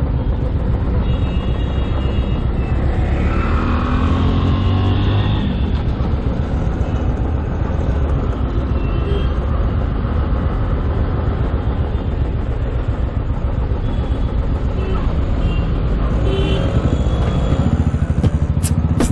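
Royal Enfield Classic 350's single-cylinder engine running at a standstill among city traffic, a steady low engine sound with other vehicles around it.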